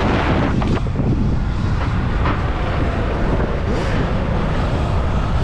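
Wind rushing over a GoPro microphone on a moving Sur-Ron electric dirt bike: a steady, dense noise heaviest in the bass, with no engine note.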